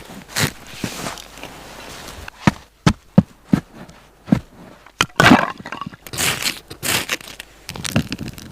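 Irregular sharp knocks and cracks, with a few longer scraping sounds about two-thirds of the way through.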